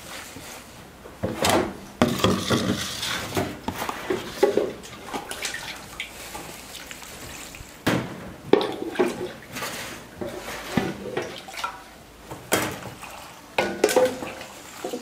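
Vegetables being washed by hand in a basin of water: irregular splashing and sloshing, with knocks and clinks against the dish.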